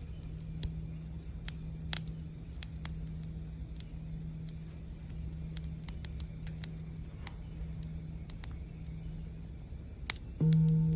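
Campfire crackling with scattered sharp pops over a low steady rumble, while a singing bowl's low tone lingers faintly. Near the end, a singing bowl is struck and rings out loudly with a low fundamental and several higher overtones.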